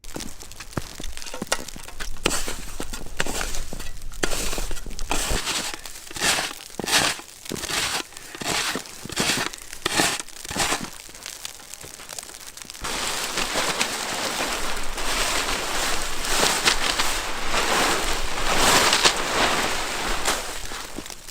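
Snow crunching underfoot: dense crunching at first, then a run of separate steps about one a second, then steady, denser crunching and rustling for the last eight seconds, with a low rumble of wind on the microphone under parts of it.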